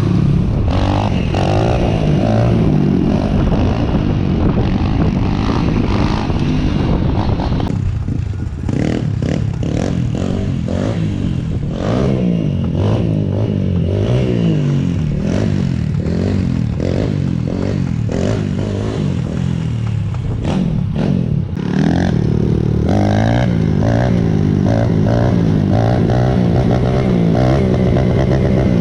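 Apollo RFN Thunder 140cc pit bike's single-cylinder four-stroke engine being ridden, its note rising and falling again and again as the throttle opens and shuts. Through the middle stretch it runs lower and choppier, with clattering knocks.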